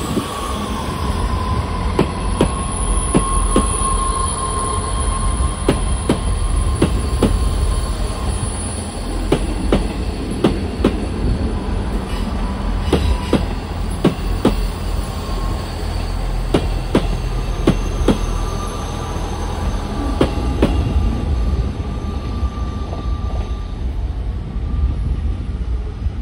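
A diesel train running on the rails: a steady low rumble with irregular clicks and clacks of the wheels over rail joints and points, and a faint thin wheel squeal.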